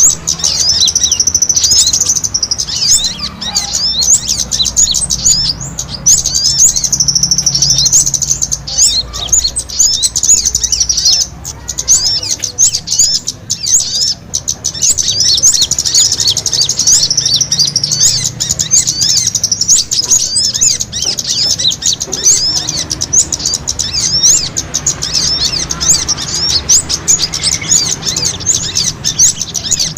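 Bird-lure recording of small birds' fighting calls: a dense, continuous chatter of rapid high chirps and trills from several birds at once, played to draw wild small birds in.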